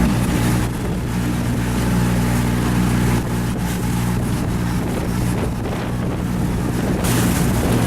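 Boat engine running steadily under way, a low even hum, with water rushing past and wind on the microphone; the wind noise picks up near the end.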